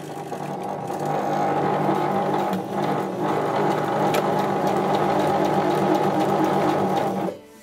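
Electric sewing machine sewing a straight stitch along a zipper with the zipper foot. It picks up speed over the first second, runs steadily, and stops abruptly near the end.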